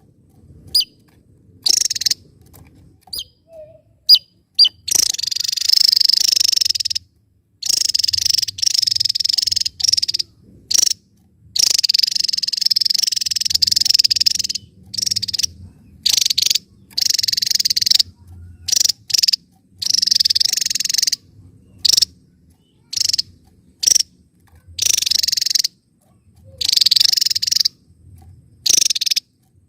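Javan tesia singing: a few single high chirps, then repeated loud bursts of rapid, jumbled high-pitched song, each one to three seconds long with short pauses between them.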